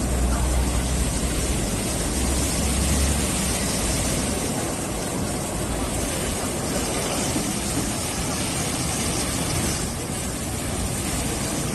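Tunnel car wash machinery running: a steady rush of noise from spraying water and motors, with a low hum that drops away about three seconds in.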